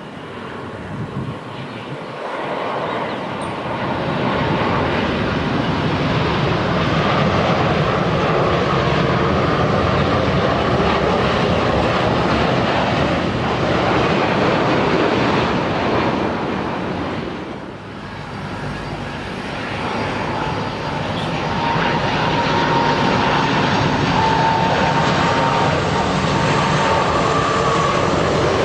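Jet airliner engines passing close by: a loud rushing noise that builds over the first few seconds, dips briefly about two thirds of the way through, then comes back loud with a thin steady whine.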